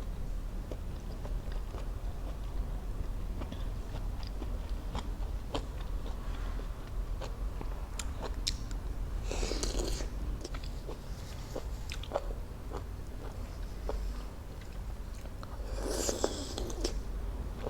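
Close-miked eating of raw fruit: wet chewing with many small mouth clicks, and two louder crunching bites, one about halfway through and one near the end. A steady low hum runs underneath.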